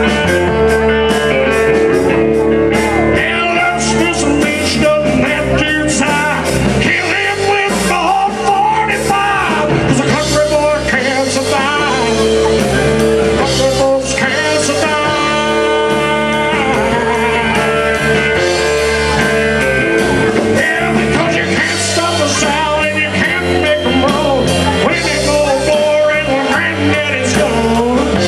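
Live country band playing a honky-tonk song: a steady beat under bending guitar and vocal lines.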